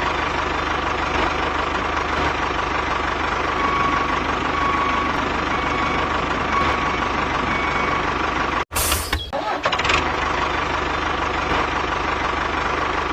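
Mini tractor engine running steadily with a low, even pulse. The sound cuts out for an instant about nine seconds in, then comes back with a short sharp crackle.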